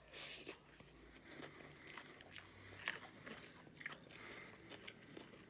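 Faint close-up eating sounds: mouths chewing and biting on broccoli and chow mein noodles, with scattered small clicks and crunches.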